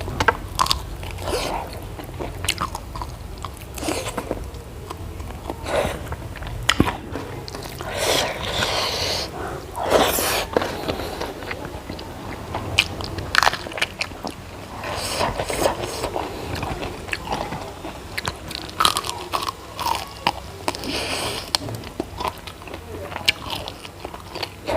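Close-up eating sounds: biting, crunching and chewing food, in irregular bites and mouthfuls.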